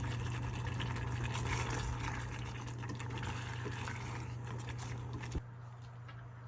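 Water running from a tap, shut off with a click about five seconds in.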